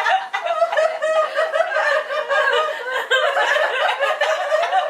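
Several women laughing and chuckling together without a break.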